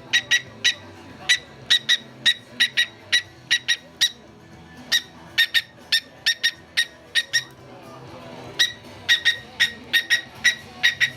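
Cockatiel tapping its beak against a hard object in quick, uneven runs of sharp clicks, about three or four a second, with a short pause about two thirds of the way through. Faint music plays underneath.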